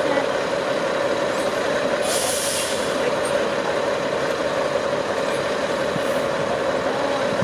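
Off-road trial truck's diesel engine running steadily under load, with a short burst of hiss about two seconds in.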